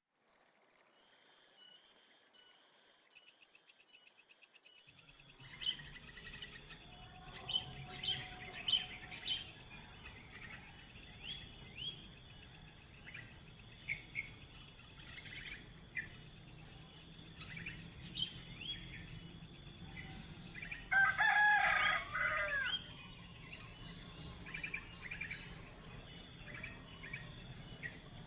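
Small birds chirping again and again over a steady, high insect drone. About three-quarters of the way through comes one louder, drawn-out bird call lasting over a second.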